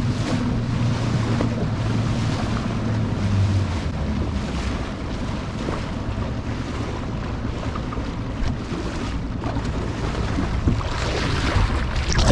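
Small fishing boat under way: a motor's low hum that fades after a few seconds, with wind buffeting the microphone and water washing around the hull.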